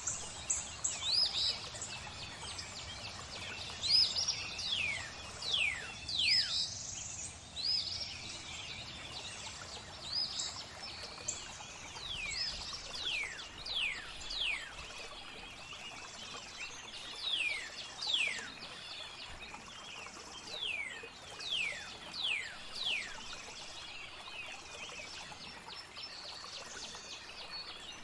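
Birdsong ambience: many quick down-slurred whistles, often about one a second, over a busy high chirping chorus, with a steady wash of flowing water underneath.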